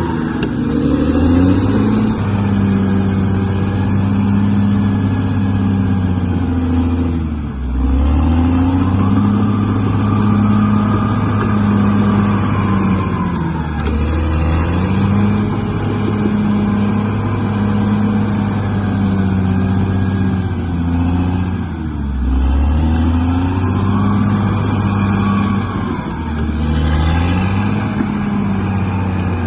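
Bulldozer's diesel engine running under load. Its note sags and recovers about four times, and a higher whine rises and falls between the sags, as the machine pushes and eases off.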